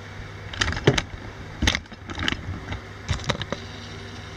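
A series of sharp knocks and clatters at uneven intervals over a steady low hum.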